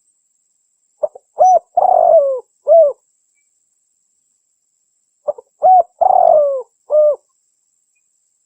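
Spotted dove song: two phrases about four seconds apart, each a couple of short coos, a longer rolling coo that falls in pitch, and a closing coo.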